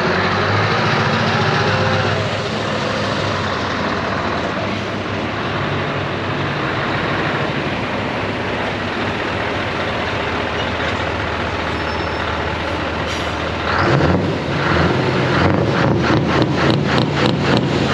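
Heavy lorry diesel engines running steadily. About fourteen seconds in a louder, deeper truck engine comes in, pulsing about four times a second near the end.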